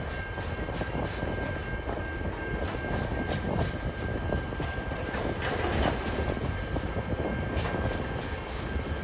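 TasRail freight train rolling past at low speed, with steady rumble, irregular clicks of wheels over rail joints and a steady high tone.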